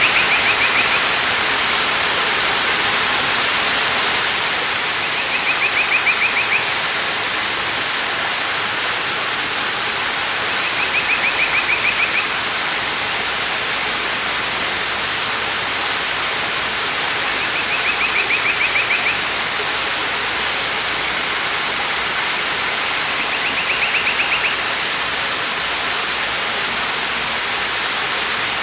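A waterfall's steady rushing water. Over it, a short, high, rapid trill from a bird sounds about every six seconds, five times in all.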